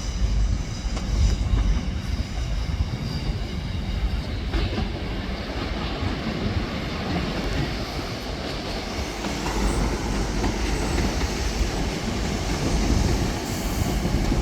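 Two coupled Class 150 Sprinter diesel multiple units running into the platform: a steady rumble of diesel engines and wheels on the rails, growing somewhat louder in the second half.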